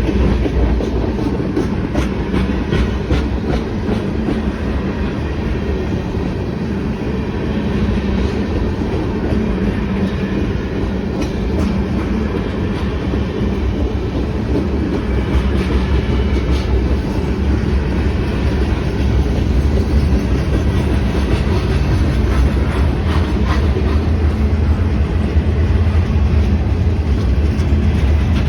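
Freight cars of a manifest train rolling past, a steady rumble of steel wheels on rail with scattered clicks and clacks, getting slightly louder in the second half.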